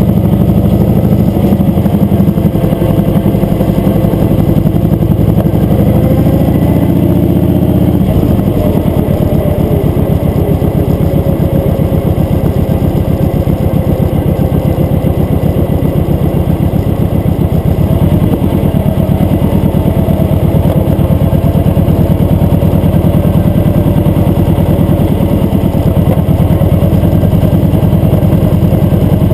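Motorcycle engine running steadily while riding, its note shifting about eight seconds in and again near eighteen seconds.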